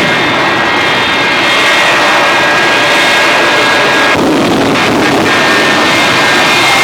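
Jet engines running loudly and steadily, a dense roar with a high turbine whine over it.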